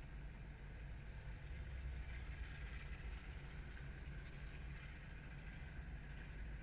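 Training helicopter's engine and rotor running steadily, a low drone with a hiss above it that swells slightly about two seconds in.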